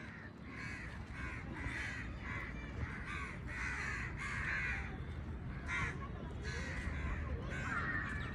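Birds calling, a rapid run of short harsh calls, several overlapping, over a steady low rumble.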